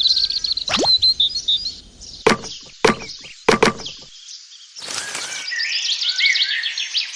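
Birds chirping, with five sharp knocks or taps in the first four seconds and a brief hiss about five seconds in.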